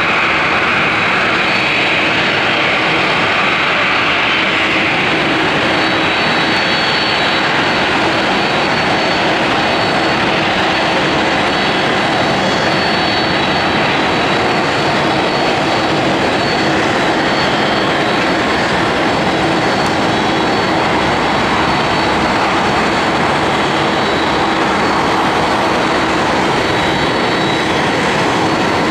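Boeing 737-800's CFM56-7B turbofan engines running at taxi power: a steady, loud rushing noise with a constant high whine and a low hum.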